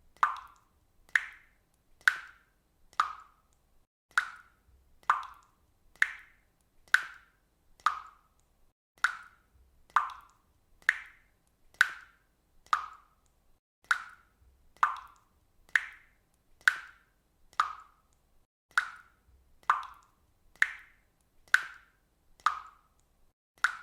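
Water dripping steadily, single drops falling at an even pace of a little more than one a second, each a short drip sound that dies away quickly.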